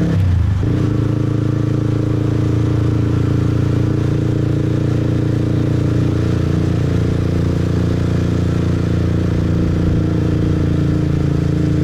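Motorbike engine running steadily while riding, heard from the rider's position. There is a brief break in the engine note just after the start.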